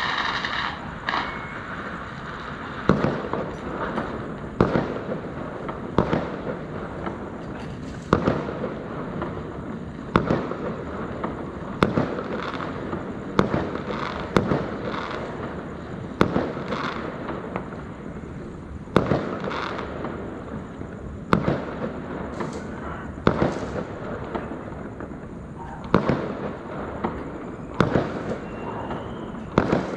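Fireworks going off: sharp bangs about every two seconds over a steady crackle.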